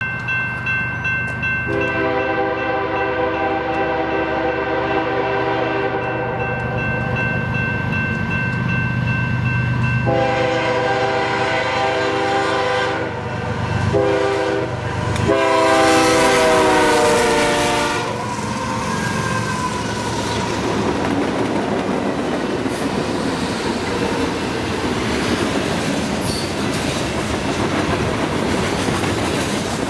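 BNSF freight train with several diesel locomotives approaching and passing, its multi-note air horn sounding the grade-crossing signal: long, long, short, long, the pitch dropping during the last blast as the lead locomotive goes by. After that, the freight cars rolling past with wheel clatter on the rails.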